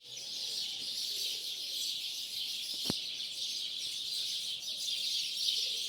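A flock of starlings chattering and whistling in a dense, continuous dawn chorus, with one sharp click about three seconds in.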